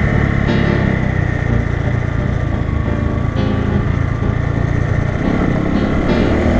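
Bajaj Boxer 150 motorcycle's single-cylinder four-stroke engine running steadily under way.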